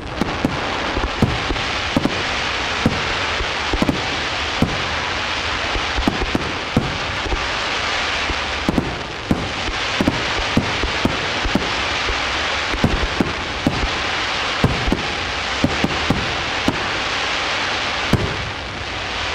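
Fireworks display in a dense barrage: shells bursting with sharp bangs several times a second over a steady hiss.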